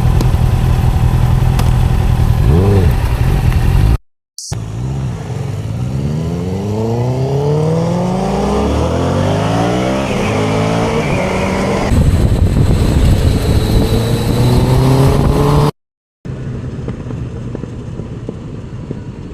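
Motorcycle engine running through an aftermarket Akrapovič full exhaust system: steady at first, then the revs climb several times as the bike accelerates, then steady running again. The sound cuts out briefly twice.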